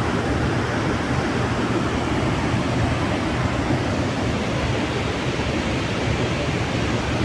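Tall waterfall: a steady, even rush of falling water.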